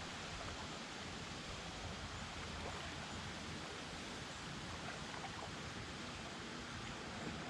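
Steady rushing noise of water and wind around a kayak on a river, with a few faint small splashes or ticks.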